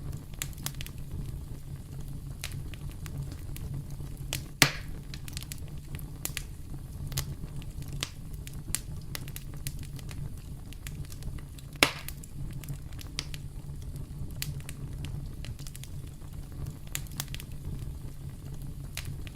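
Campfire crackling over a steady low rumble of burning wood, with two loud sharp pops, one about five seconds in and another about twelve seconds in.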